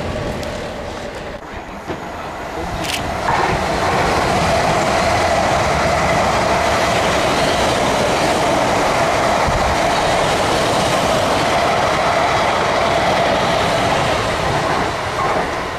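A South Western Railway electric multiple unit running through the station, its wheels on the rails giving a steady rushing noise with a held drone and some clatter over rail joints. It comes in suddenly about three seconds in and eases off near the end. Before it, a quieter train is heard moving away.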